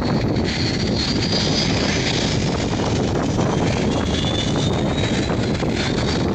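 Boeing 757-300 jet engines at takeoff power: a loud, steady rumble with a faint high whine drifting slightly in pitch above it.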